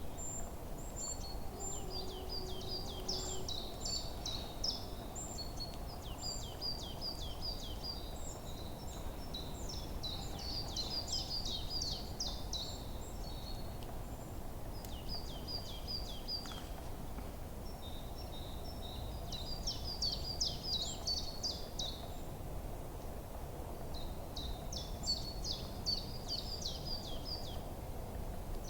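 Forest birds singing: bursts of quick, high chirping phrases that come and go every few seconds, over a steady low background rumble.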